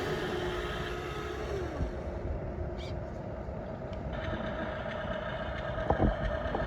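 Small electric motors and gearboxes of radio-controlled toy construction machines whining. One whine sags in pitch and stops about two seconds in, and a higher whine starts a couple of seconds later. A couple of sharp clicks come near the end.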